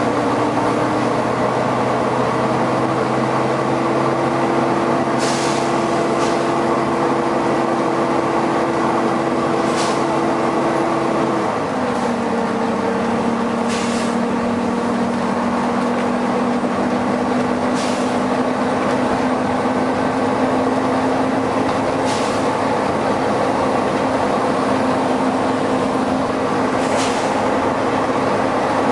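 Volvo B9TL bus with its very loud cooling fan running over the engine: a steady drone of several tones that shifts lower about halfway through. Short sharp hisses of air from the bus's air system come about every four seconds.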